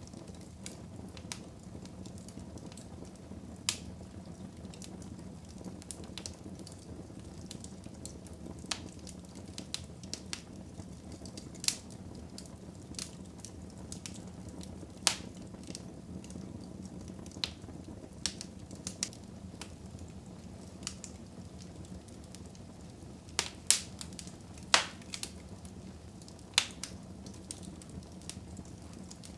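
Wood fire burning in a fireplace: a steady low rumble of the flames with irregular sharp crackles and pops from the burning logs, a few louder pops close together near the end.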